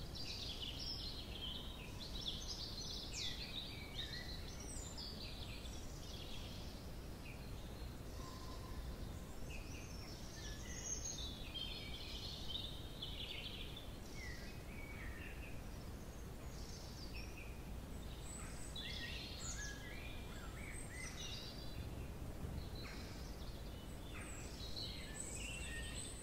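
Several small songbirds chirping and trilling, their calls overlapping, over a low steady outdoor rumble.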